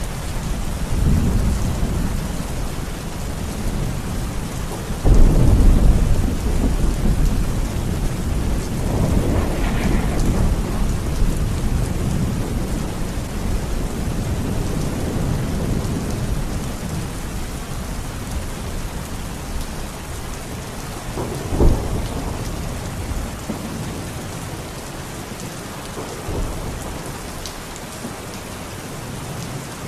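Heavy, steady rain with thunder: a sudden loud thunderclap about five seconds in that rumbles on for several seconds, another sharp crack a little past twenty seconds, and a fainter rumble later, the storm easing slightly toward the end.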